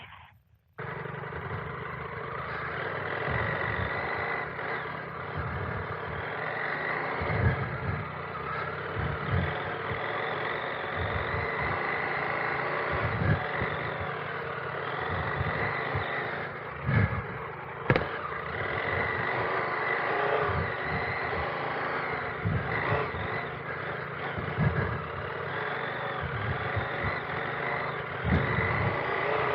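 Adventure motorcycle being ridden: steady engine and riding noise that starts suddenly about a second in, with scattered low thumps and rattles and one sharp click about 18 seconds in.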